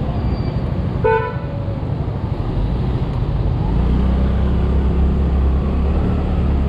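A vehicle horn gives one short toot about a second in, over the steady low rumble of a motor scooter riding through city traffic, which gets heavier from about halfway.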